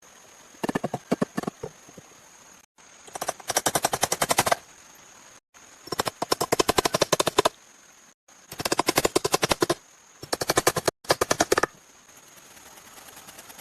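Rapid runs of sharp knocks, about a dozen strikes a second, in several bursts of a second or so each, broken by abrupt cuts.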